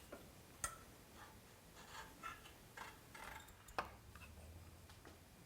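Near silence with a few faint clicks and light knocks, two of them sharper, about two-thirds of a second and nearly four seconds in.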